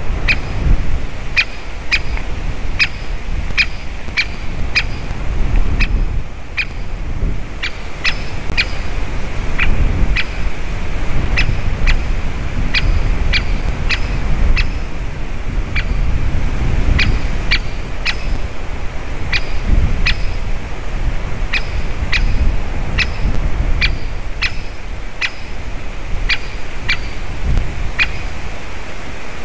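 Great spotted woodpecker giving short, sharp 'kik' call notes over and over, irregularly about one to two a second, over a steady low rumble.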